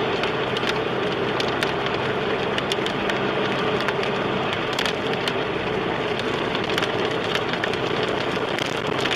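Heavy wind-driven rain lashing a moving car in a tornadic storm: a steady, loud rush, with many sharp ticks of drops or small debris striking the body, over the car's low hum.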